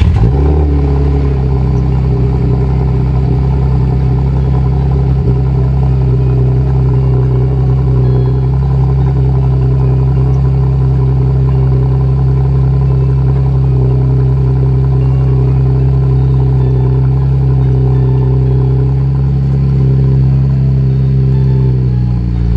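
2015 Camaro 2LS's 3.6-litre V6, run through Flowmaster Super 10 mufflers, idling on a cold start. The exhaust note stays steady, then drops slightly in pitch near the end.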